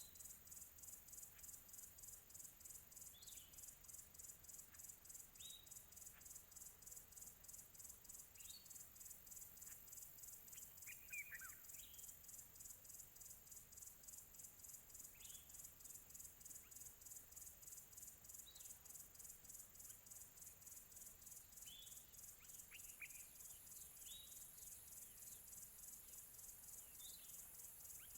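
Faint outdoor nature ambience: a steady, high, evenly pulsing insect chorus, with scattered short bird chirps every couple of seconds and a longer falling bird call about eleven seconds in.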